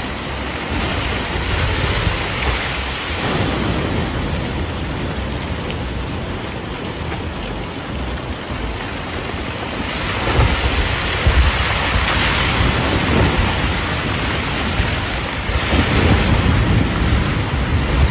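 Rushing floodwater of a swollen river with a heavy, continuous low rumble, swelling louder about ten seconds in and again near the end.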